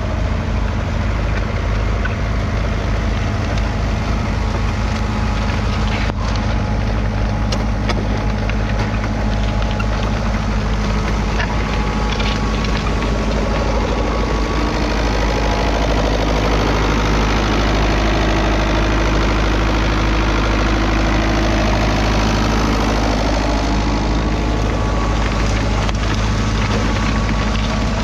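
Fiat 640 tractor's 3.5-litre four-cylinder diesel engine running at a steady, even speed, with a few faint clicks about six to eight seconds in.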